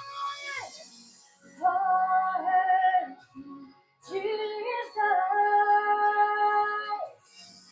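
A woman singing long held notes in a worship song, two sustained phrases with a short pause between them.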